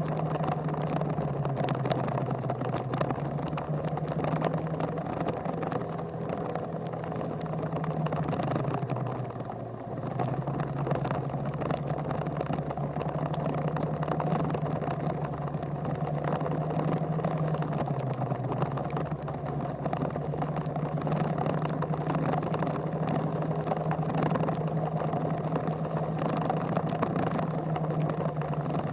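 A vehicle engine running steadily under a constant hiss of wind or road noise. Its pitch drops briefly and comes back up three times.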